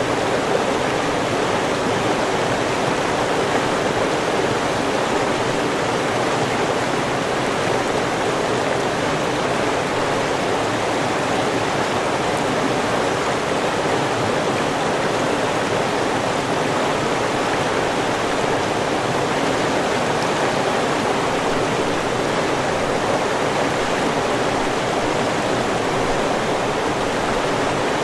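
River water flowing and rushing steadily, a continuous even rush of running water with no breaks.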